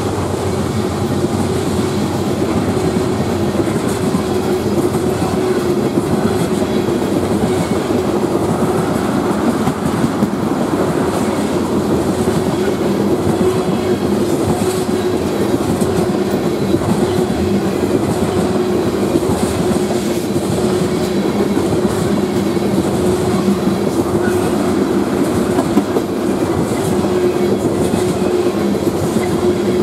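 Ethanol tank cars of a freight train rolling past, a steady rumble of steel wheels on rail with the clickety-clack of wheels over rail joints.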